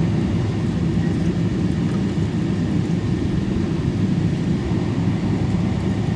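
Cabin noise inside a Boeing 777-224 on the ground before takeoff: a steady, low rumble of the engines and airframe, with no change in pitch.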